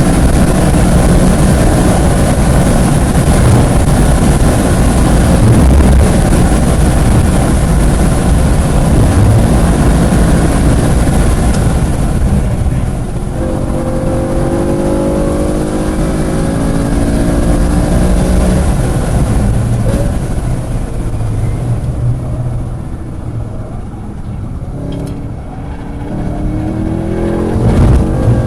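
Track car's engine heard from on board at high revs with heavy wind and road noise. The car lifts off about twelve seconds in, then the engine note climbs as it accelerates again. It eases off once more past the twenty-second mark and pulls hard again near the end.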